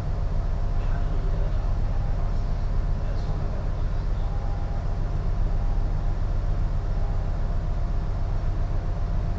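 Steady low rumble aboard a container ship, with a faint steady hum above it.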